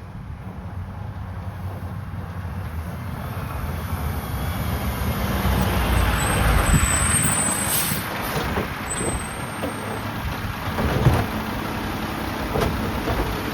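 Mack LR side-loader garbage truck running, its engine rumble building up in level over the middle. A thin high squeal comes about halfway through and again a couple of seconds later, and there is a sharp knock near the end.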